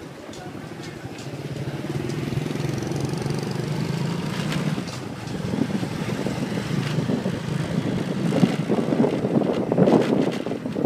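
A motorcycle taxi's small engine running steadily under way.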